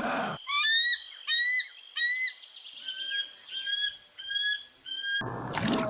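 Parrot calling: a series of about eight short, whistled squawks, each rising and then falling, repeated roughly every half-second to second. Near the end a louder, different sound cuts in.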